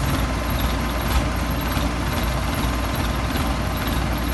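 Heavy diesel engine of working machinery running steadily at a low, even rumble, with a brief click about a second in.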